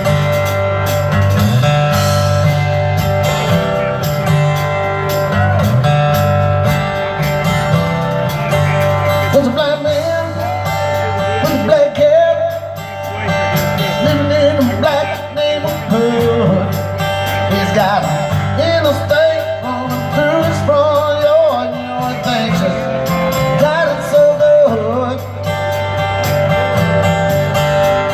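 Rock band playing a song, with guitars over a steady bass line and a voice singing the melody.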